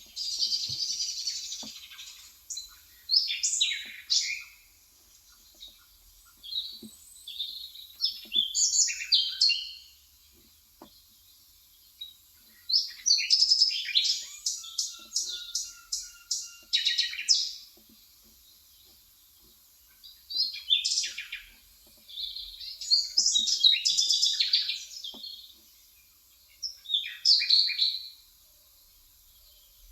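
Small birds chirping and twittering in repeated bursts, including a quick run of notes about halfway through. Faint key clicks from an electrocapacitive (Topre-style) keyboard being typed on sound beneath.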